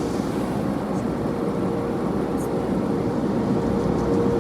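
Automatic car-wash tunnel equipment running: a steady rushing noise with a constant hum.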